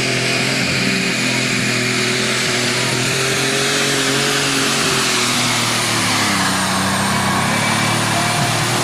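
John Deere alcohol-burning super stock pulling tractor running flat out under load down the track. Its engine note holds steady, then drops in pitch about six seconds in.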